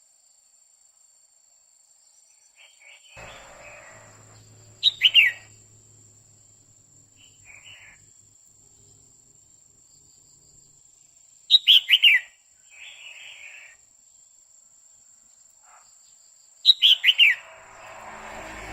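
Female red-whiskered bulbul calling: three short loud calls, each a quick run of three or four falling notes, several seconds apart, with softer scratchy sounds between them. A faint steady high-pitched tone runs underneath.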